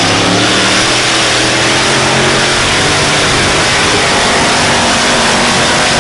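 A competition pulling vehicle's engine at full throttle under heavy load, very loud and steady. Its pitch rises a little in the first second, then holds.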